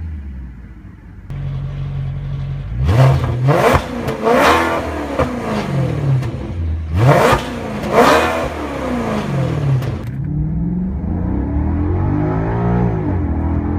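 Maserati Quattroporte's 4.2-litre V8 revved in five quick throttle blips, three and then two, each sharp rise in revs falling back to idle. After that it runs steadier, with one gentle rise in revs near the end.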